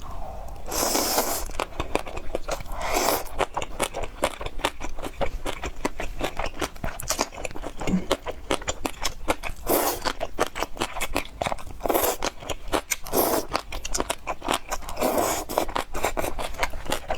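Close-miked mukbang eating sounds: steady chewing with rapid crunchy clicks, broken about six times by louder, longer noisy bursts.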